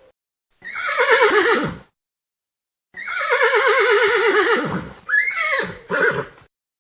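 Horse whinnying: a short neigh that falls in pitch with a quavering trill, then a longer trilled neigh falling away, followed by two short calls near the end.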